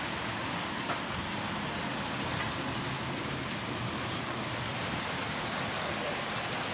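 Heavy rain and hail coming down hard in a steady hiss, with a few sharp ticks of hailstones striking.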